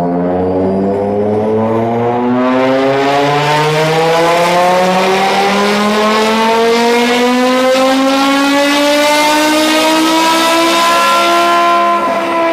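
BMW E60 M5's V10 engine on a dyno pull, its pitch rising steadily for about ten seconds as it climbs through the revs, then levelling off, with a short dip in level near the end.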